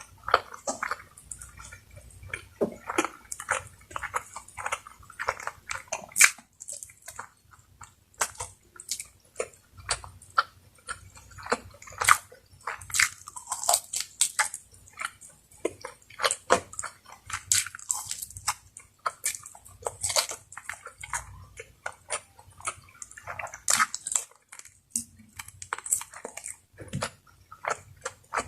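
Close-miked eating sounds: a person chewing and biting, with wet smacking and many short irregular clicks.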